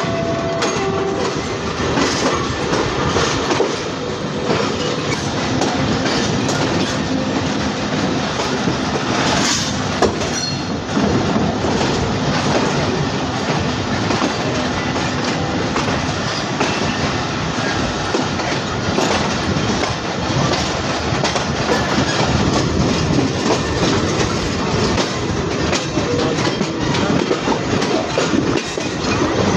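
Passenger train running, its wheels clattering steadily over the rail joints with a continuous rumble of moving carriages. A short, sharp high sound stands out about ten seconds in.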